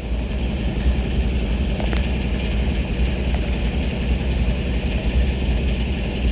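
Diesel freight locomotive engines running, a steady low rumble.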